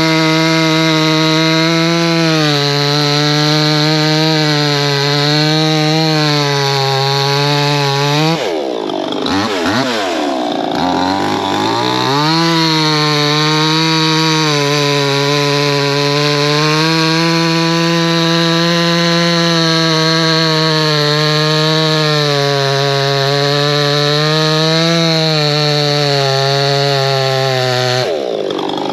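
Proyama 68cc two-stroke chainsaw held at high revs, bucking through a log. About eight seconds in, the engine note drops and sweeps back up to full speed around twelve seconds in, then drops again near the end.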